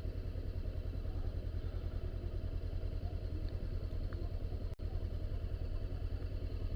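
Honda CBR500R's parallel-twin engine idling steadily, with the bike stopped and ready to pull away. The sound cuts out for an instant about three-quarters of the way through.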